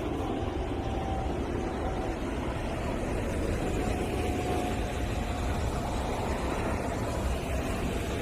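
Airplane flying overhead, heard from the ground: steady engine noise with a faint whine that slowly falls in pitch. Recorded on a camera's microphone, it comes across somewhat quieter than it sounds in person.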